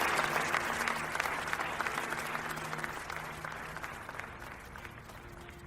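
A crowd applauding, the clapping dying away gradually, over a faint low sustained musical tone.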